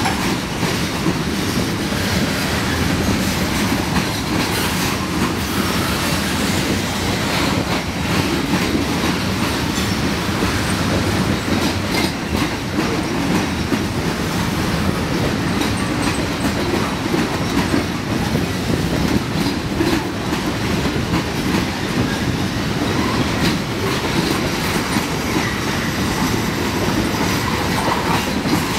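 Freight cars of a long CN freight train rolling past: covered hoppers, boxcars and tank cars, their steel wheels rumbling steadily on the rails with a continuous clickety-clack of wheels over rail joints.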